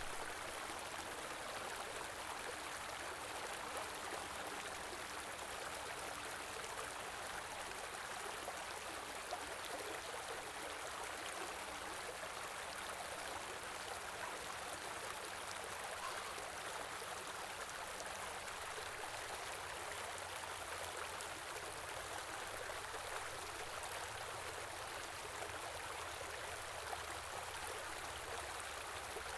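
A small river running steadily, an even rushing of water over stones.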